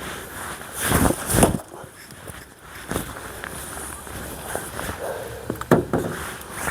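Fiskars axe striking a tough, unsplit log: two heavy thuds about a second in, close together, then a lighter knock and a few sharp clicks near the end.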